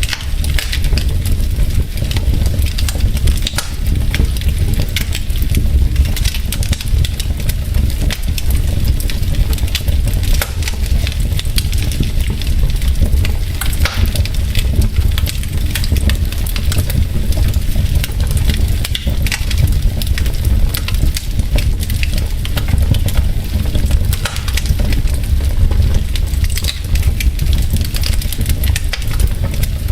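Wood logs burning in a fireplace, crackling and popping continuously over a steady low rumble of the fire.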